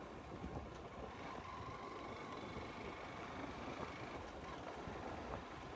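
Honda SP 160 motorcycle running on the road, heard as a steady mix of engine and wind noise on a helmet-mounted microphone.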